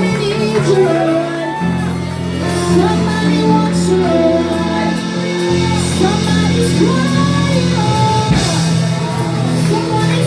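Live gospel praise and worship music: voices singing over sustained keyboard and bass chords in a large hall.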